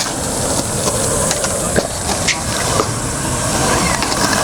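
Skateboard wheels rolling over concrete with a steady rumble and a few light clicks, under the constant high buzz of cicadas.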